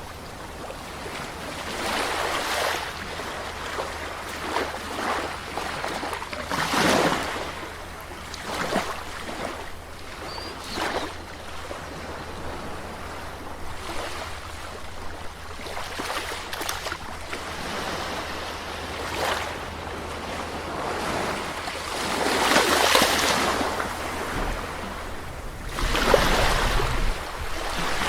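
Sea waves breaking on a shore, the surf swelling and washing back every few seconds, with the biggest breakers near the end.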